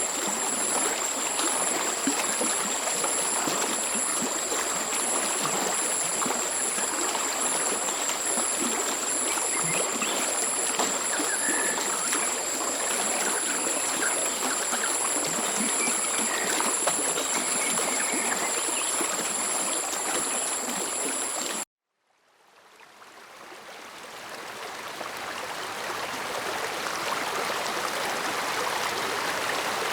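A stream running, a steady rushing and trickling with a thin high-pitched whine above it. About two-thirds of the way through, the sound cuts out abruptly, then the water fades back in without the whine.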